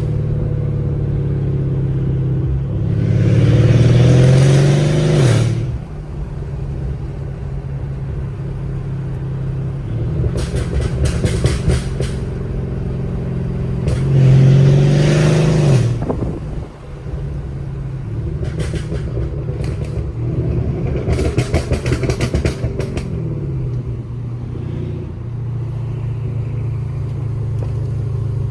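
Mercedes CLS550's twin-turbo V8 exhaust with downpipes, pulling hard twice: the pitch rises, then drops sharply at an upshift. Between the pulls and after them the exhaust crackles while cruising at a steady drone.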